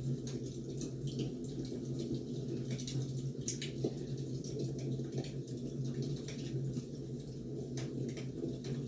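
Wood fire crackling: frequent irregular small pops and snaps over a steady low hiss.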